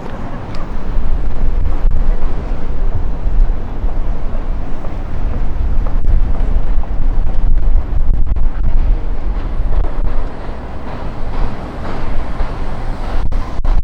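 Gusty wind buffeting the microphone: a loud, uneven low rumble that rises and falls with the gusts.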